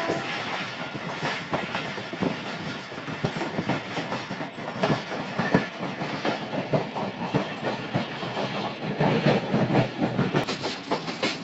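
Train wheels clattering over rail joints: a continuous run of irregular clacks over a rumbling noise.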